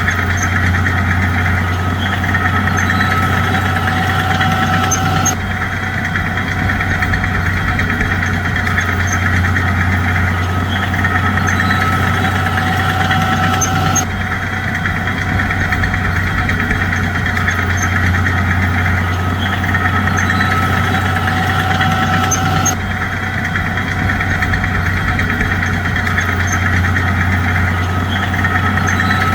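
Bulldozer engine running steadily with a constant low hum. The same stretch of engine sound repeats, jumping abruptly about every nine seconds, as a looped track does.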